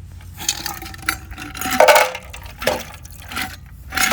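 Clinking of cups and bottle as a whisky-and-tea drink is mixed: several sharp clinks with a brief metallic ring, the loudest about two seconds in.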